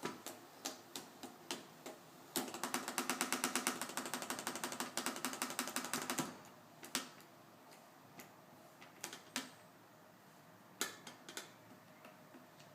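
Electric fan being pawed at by a cat: scattered single clicks and knocks, then about four seconds of rapid, evenly spaced ticking clatter near the middle, followed by a few more clicks.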